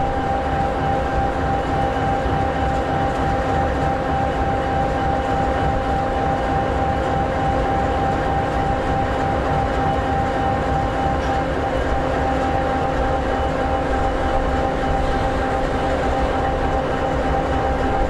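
EMD 16-710G3B sixteen-cylinder two-stroke diesel of an SD60E locomotive idling. A steady low rumble runs under a steady whine, with no change in speed.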